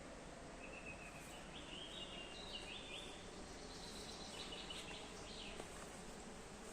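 Faint bird chirping: a run of short, high, stepped chirps over a steady background hiss, stopping a second or so before the end.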